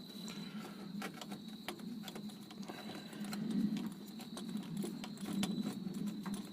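Air compressor running steadily, a low hum that swells and fades, with scattered small clicks and a faint steady high whine.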